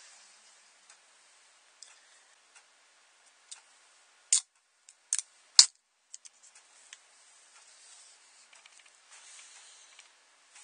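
Small hard plastic parts being handled: scattered light clicks and taps, with three sharp, louder clicks around the middle.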